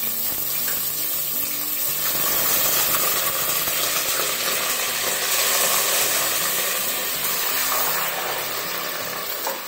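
Grated cucumber sizzling in hot oil in a pot, a steady hiss as the water in the cucumber hits the oil.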